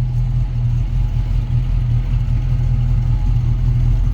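1964.5 Ford Mustang engine idling with a steady low hum.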